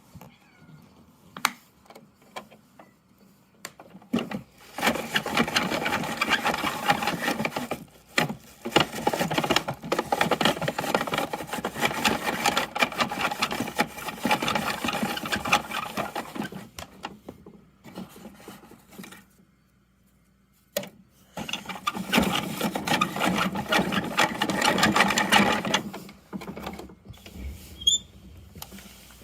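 Plastic Bruder Mack toy garbage truck rattling and clicking rapidly in two long spells, the first about eleven seconds long and the second about four, with a few separate clicks between them.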